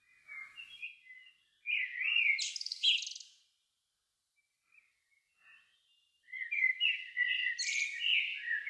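A songbird singing two warbling phrases, one about two seconds in and one about six seconds in, each ending in high, rapid twittering notes.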